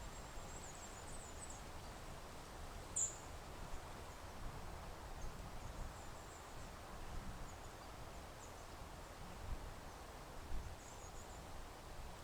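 Quiet outdoor ambience with a low, steady rumble and a few faint, very high, short bird chirps, one clearer about three seconds in.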